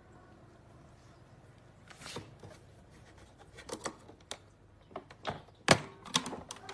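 A scatter of short clicks and knocks from something being handled, about a dozen, with the sharpest knock near the end.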